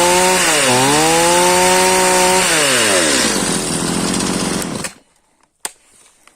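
Stihl MS 210 C two-stroke chainsaw revved up twice and held at high revs, then dropping back toward idle. The sound cuts off about five seconds in, followed by a sharp click.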